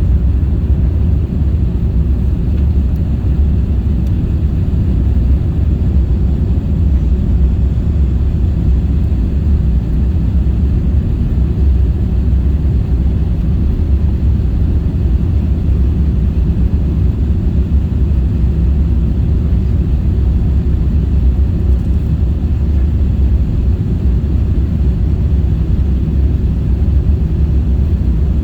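Airbus A350-1000 airliner noise heard inside the cabin: a steady, even low rumble of engines and airflow that does not change.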